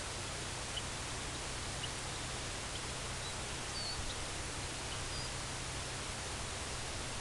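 Steady outdoor hiss with faint, short bird chirps about once a second, some of them brief slurred high notes.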